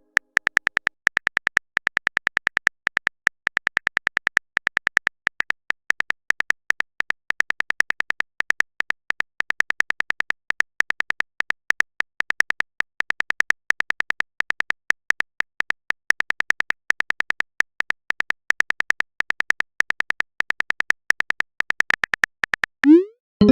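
Phone-keyboard typing sound effect: a long, even run of short high-pitched ticks, several a second, as a text message is typed out. Near the end a short rising sweep.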